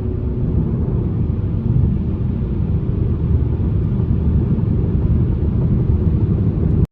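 Car driving, heard from inside the cabin: a steady low road-and-engine rumble that cuts off suddenly at the end.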